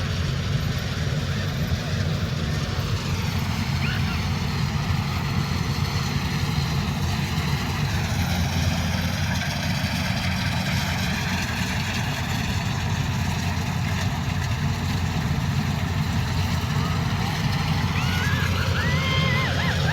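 Combine harvester's diesel engine running at a steady, even drone.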